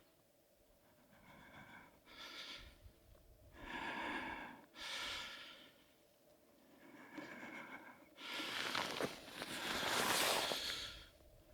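A person breathing heavily, about six breaths in and out with short pauses between them, the loudest near the end.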